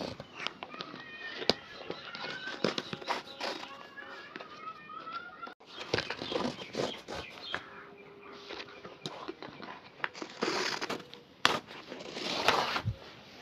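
Shoe being polished by hand: irregular taps and clicks of the brush, cloth and polish tin, with two longer brushing swells near the end. Birds chirp faintly behind it in the first half.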